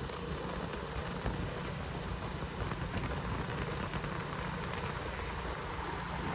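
Suzuki Shogun 110R motorcycle engine running steadily: a low hum under an even hiss.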